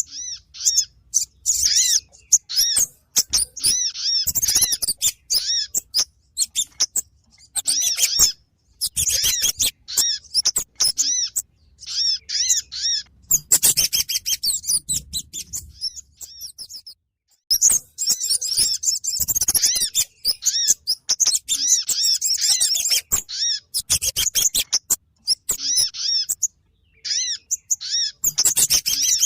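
Recorded Kemade and Sogon bird calls played as a trapping lure: rapid, high chirping chatter in bursts separated by short pauses, with a brief break about two thirds of the way through.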